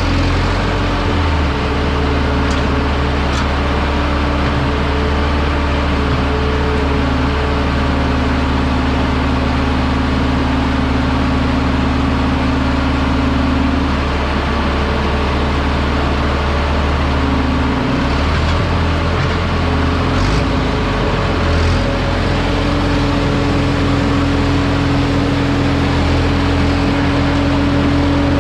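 Heavy diesel engine of logging equipment running steadily under work, its engine note shifting in pitch a few times as throttle and load change.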